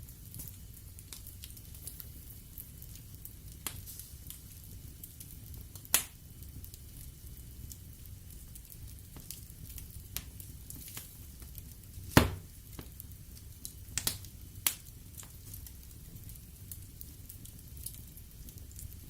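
Wood fire burning in a fireplace: a low steady rumble of the flames with scattered sharp crackles and pops of the burning logs, the loudest pops about six seconds in, about twelve seconds in, and a quick pair around fourteen seconds.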